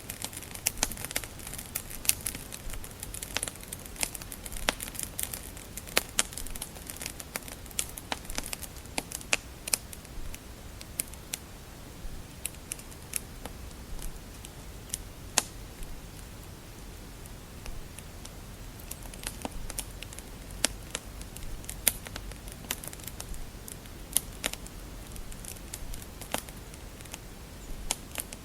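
Wood fire crackling in a fireplace: irregular sharp pops and snaps over a low steady rumble and hiss, busier at the start and again in the last third.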